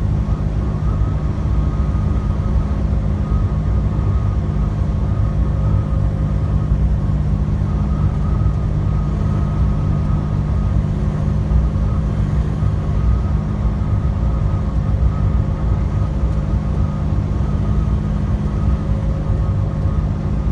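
Inside a tractor-trailer's cab while driving: the diesel engine's steady drone with constant low road rumble, holding even speed.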